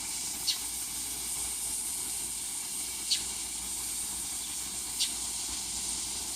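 Steady outdoor ambience of high-pitched hiss, with a short high chirp about every two to three seconds.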